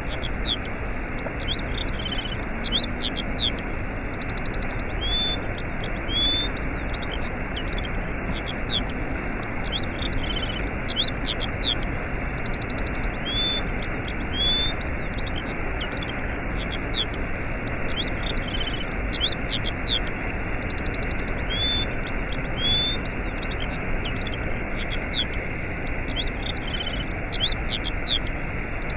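Waterfall running with a steady rush, and small birds chirping and trilling over it. The birdsong is a looped recording that repeats about every eight seconds.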